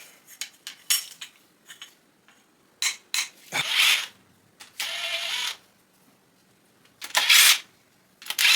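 Metal hand tools and engine parts clinking and knocking against each other, with a few longer rasping bursts a second or so long, like a socket ratchet being worked.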